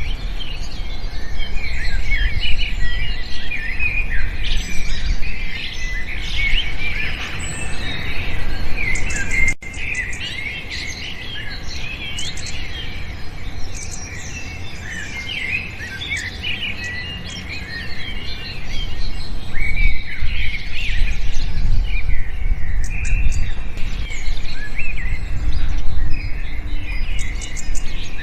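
A dense chorus of many small birds chirping and twittering at once, with quick overlapping chirps and trills over a low rumble. The chorus drops suddenly to a thinner, quieter stretch about nine and a half seconds in, and swells back near the end.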